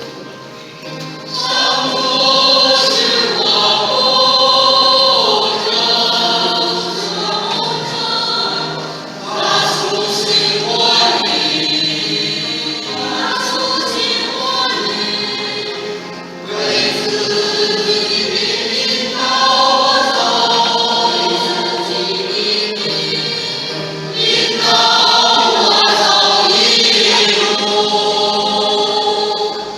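A group of voices singing a Christian hymn during a church service, in long sung phrases with short breaks about every seven or eight seconds.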